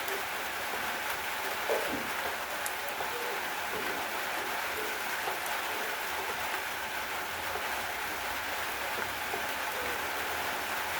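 Steady rain falling: an even hiss with scattered individual drops and drips.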